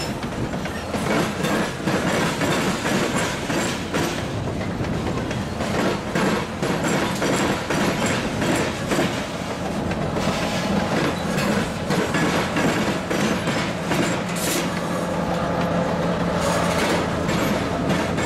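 Freight train of covered hopper cars rolling past, the wheels clacking steadily over the rail joints. From about halfway through, a diesel locomotive's engine hum rises under the clatter as the CSX locomotive draws near, with a brief wheel squeal along the way.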